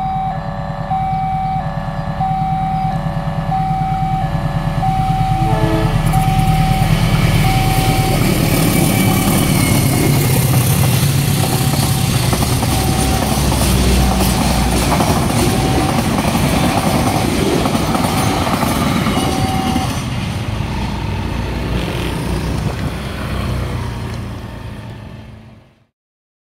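Automatic level-crossing alarm beeping on and off about every two-thirds of a second from its electronic speaker while a diesel-hauled passenger train passes, engine drone first, then the steady rush of carriage wheels on the rails. The sound fades out near the end.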